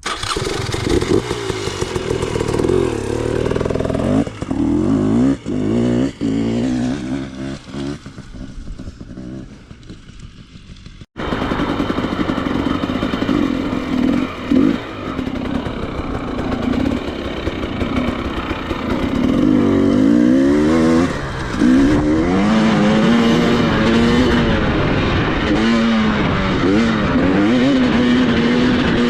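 Off-road motorcycle engine being ridden hard, its pitch rising and falling repeatedly with throttle and gear changes. There is an abrupt cut about eleven seconds in, after which the engine runs louder and steadier.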